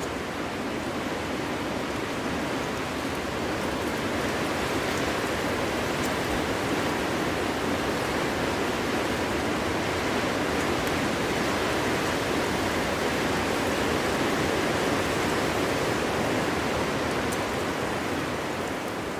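Wind blowing through a forest: a steady rushing noise that swells slowly and eases off again near the end.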